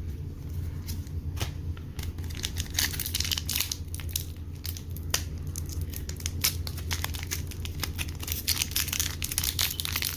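Foil booster-pack wrapper crinkling and tearing as it is opened by hand, with dense irregular crackles throughout over a steady low hum.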